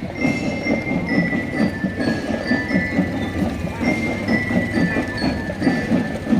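Marching drum band playing: a steady, fast drumbeat under a melody of short, bright bell-like notes from a marching glockenspiel (bell lyra).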